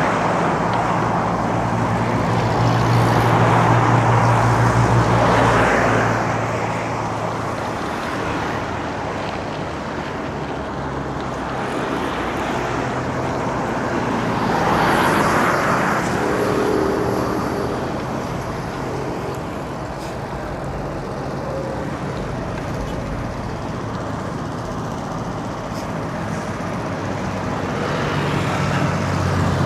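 Road traffic around a moving bicycle: motor vehicles' engines and tyres running by in a continuous hum. Several vehicles pass, swelling near the start, again about fifteen seconds in, and near the end.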